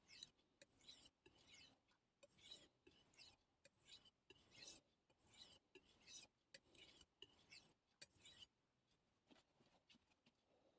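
Faint, rhythmic scraping of a Miyabi gyuto knife blade stroked back and forth on a whetstone, about two strokes a second, freehand sharpening. The strokes stop about eight and a half seconds in, leaving only faint scattered ticks.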